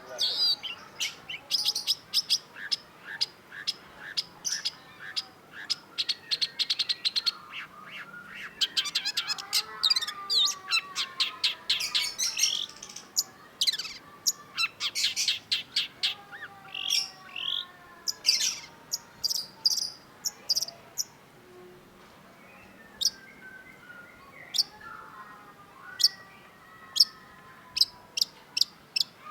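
Long-tailed shrike singing: fast runs of sharp chirps and trills mixed with lower sliding whistled notes, thinning out after about twenty seconds to single sharp notes spaced about a second apart.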